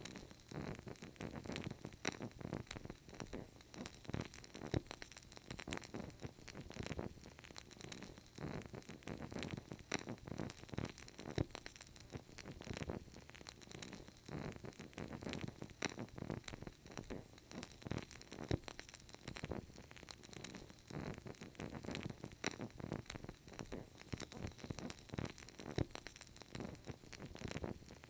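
Burning candle crackling steadily, a dense run of small irregular pops and clicks.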